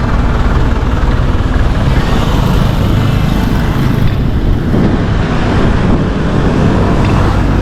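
Wind buffeting the microphone while riding a bicycle: a loud, steady rush that is heaviest in the low end.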